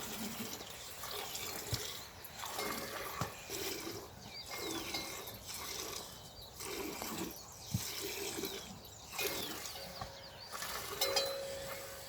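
Steady hiss of rain with scattered calls of farm animals and a few short bird chirps; one steady held call sounds in the last couple of seconds.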